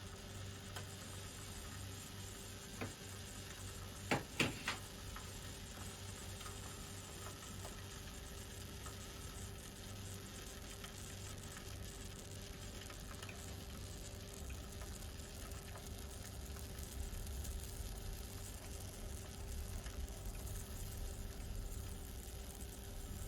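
Mamod SE1 toy steam engine's boiler heating over its burner, giving a steady sizzling hiss as it builds steam pressure, the engine not yet turning. A sharp click about three seconds in and three quick clicks between four and five seconds in.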